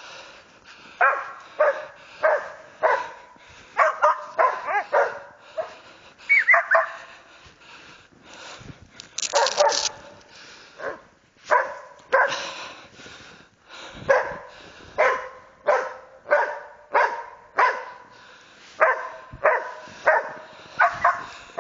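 West Siberian Laika hunting dogs barking persistently at a marten: a steady run of sharp barks, about one to two a second, with a few short whining yips among them.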